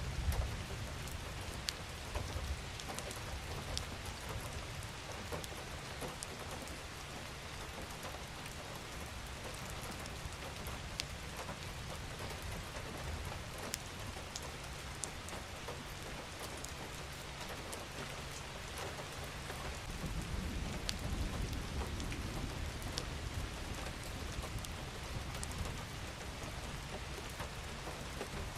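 Steady rain falling, with scattered louder drops ticking close by. A low rumble swells for a few seconds about two-thirds of the way through.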